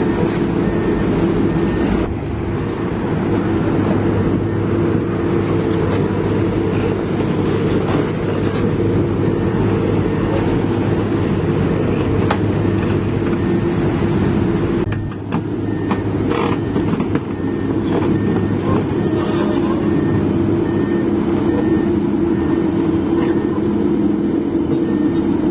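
Heavy diesel engine running steadily, with a brief dip in level about fifteen seconds in.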